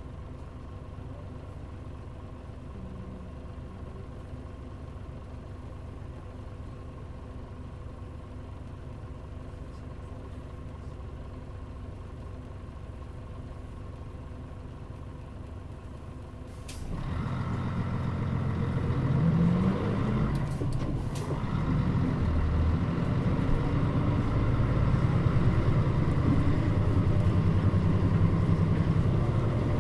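Fuso Aero Star city bus's diesel engine idling, heard from inside the bus. More than halfway through, a sharp air hiss as the air brakes release, then the engine pulls harder and gets louder as the bus moves off and accelerates, with two more short air hisses a few seconds later.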